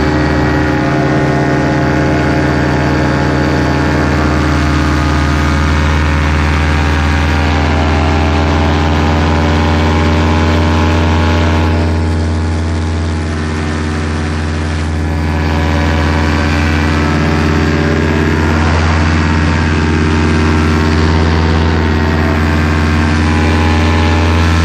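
Paramotor engine and propeller running steadily in flight, easing off slightly in level about halfway through.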